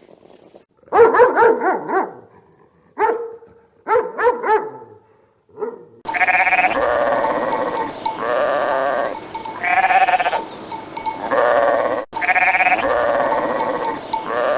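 Sheep bleating: a few quavering bleats, then a louder run of bleats about every second and a half over a steady hiss.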